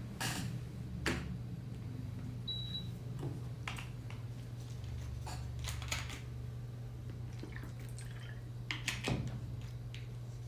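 Quiet room tone with a steady low hum, a few scattered light clicks and taps, and one brief high beep about two and a half seconds in.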